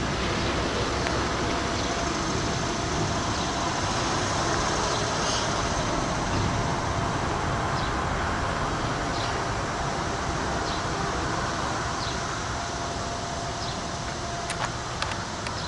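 Intermodal freight train rolling past: a steady rumble of wheels on rail, with a faint thin steady tone and light clicks about every second and a half, easing off a little near the end.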